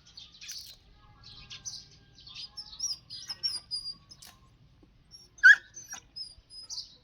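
Small birds chirping and peeping in quick high-pitched calls, some short whistles gliding in pitch, with one sharp louder call about five and a half seconds in.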